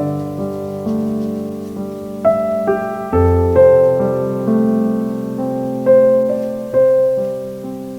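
Background music: slow, gentle solo piano, single notes over held chords.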